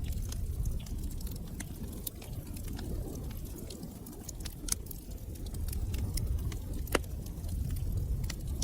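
Wood fire crackling in a fireplace: irregular sharp snaps and pops over a low steady rumble of burning, with one louder pop about seven seconds in.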